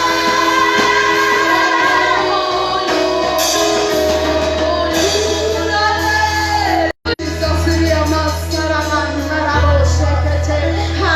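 Church worship music: voices singing over instrumental accompaniment with a sustained low bass line that changes note every few seconds. The audio cuts out briefly about seven seconds in.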